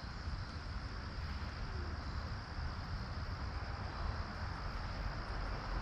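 Steady outdoor background noise: wind rumbling on the microphone under an even hiss, with no distinct event.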